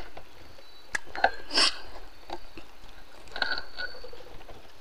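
A person eating close to the microphone: chewing with a few sharp mouth clicks and smacks, the loudest about a second and a half in, and faint high chirps about three and a half seconds in.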